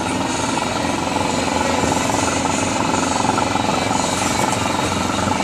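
Small outboard motor running steadily with a fast, even putter.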